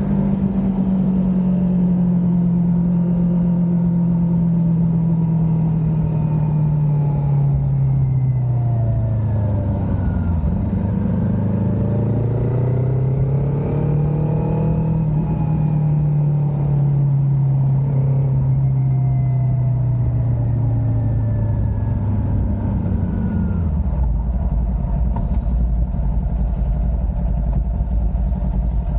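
Kawasaki Ninja 400 parallel-twin engine heard from the riding bike. The revs sink slowly as it rolls off, pick up briefly about eleven seconds in, then sink again. For the last five seconds they settle into a steady low idle.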